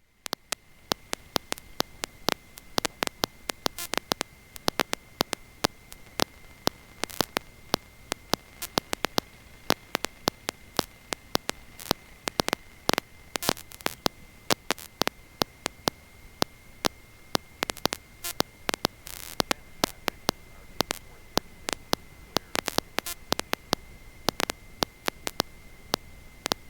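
Electrical static on the aircraft's headset intercom audio feed: a faint hiss and a steady high whine, broken by many irregular crackles and pops. No engine sound comes through.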